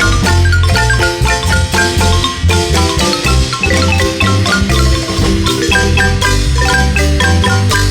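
Marimba band playing: fast, evenly struck mallet notes in a running melody over a steady pulse of low bass notes.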